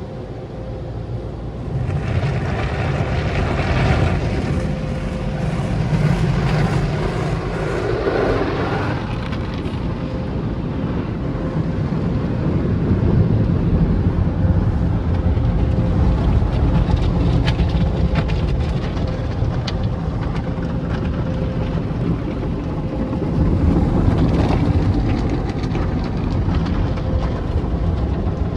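Automatic car wash equipment running: a loud, steady rushing rumble that swells about two seconds in and stays up, with a faint steady hum underneath.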